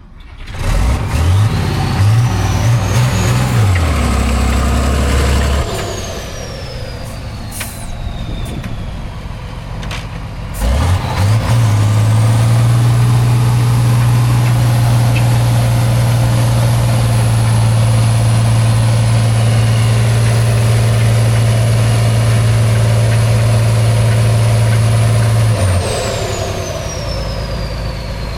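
Heavy off-road trial truck's diesel engine working hard in two long bursts of revs. The first runs about five seconds; the second starts about eleven seconds in and holds high for about fourteen seconds before easing off. A thin high whistle climbs, holds and falls away with each burst.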